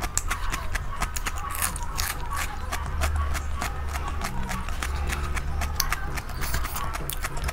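Close-miked chewing of crunchy raw onion: a dense, irregular run of crisp crackling clicks. Under it are wet, sticky sounds of fingers working curry and rice, over a steady low hum.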